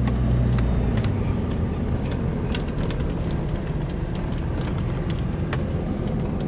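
Car being driven: steady engine and road noise, with scattered light clicks.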